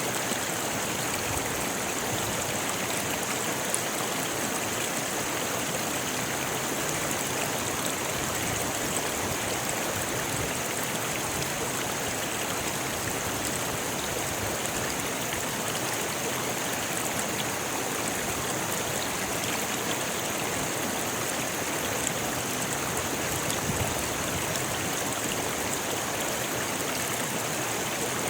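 A rocky river flowing: a steady, even rush of water over stones that holds at the same level throughout.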